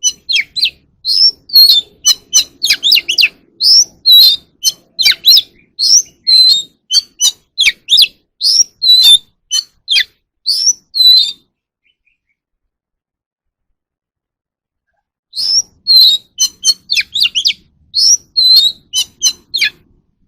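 Oriental magpie-robin singing a fast series of short, sharp whistled and chirping notes. It pauses for about four seconds around the middle, then starts a second burst of song.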